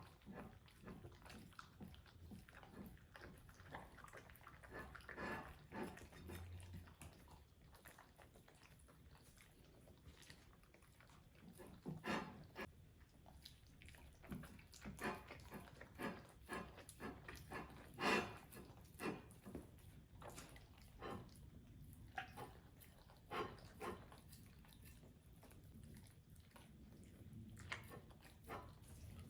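Half-husky dogs chewing and biting food: a run of short chomps and mouth clicks, the loudest about 12 and 18 seconds in.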